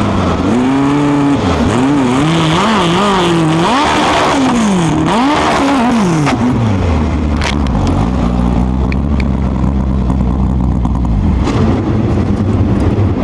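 Sprint car engines revving up and down, their pitch rising and falling repeatedly. From about seven seconds in they settle into a steadier low drone, with a few sharp knocks in the second half.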